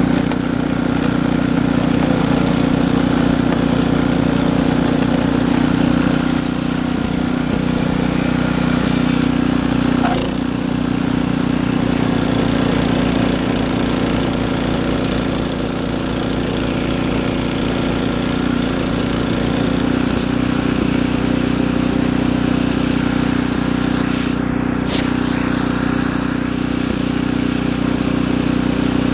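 Snowblower engine running steadily at a constant speed.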